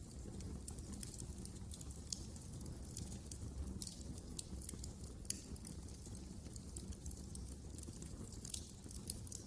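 Fireplace fire crackling: irregular small pops and snaps over a steady low rumble of the flames.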